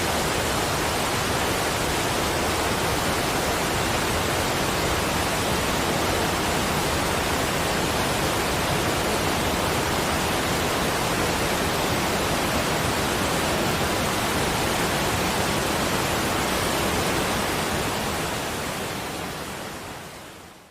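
Steady, even rushing noise spread across low and high pitches, fading out over the last few seconds.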